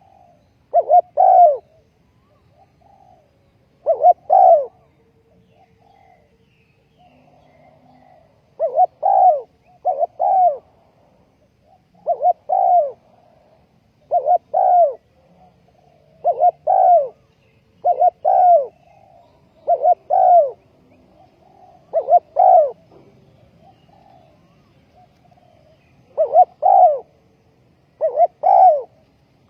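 Spotted dove cooing: loud coos in pairs, repeated every second or two, with a break of a few seconds about five seconds in.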